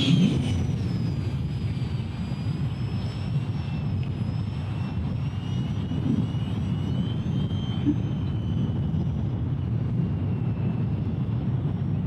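A Rebel 70 radio-controlled jet's fan whining in flight, its pitch slowly drifting down and up. Heavy wind rumble on the microphone lies underneath.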